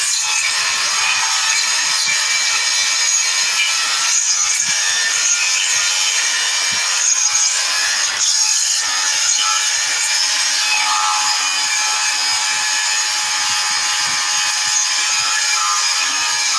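Steady, loud, harsh hissing noise of metal fabrication work on steel plate for a tractor bumper, running without a break.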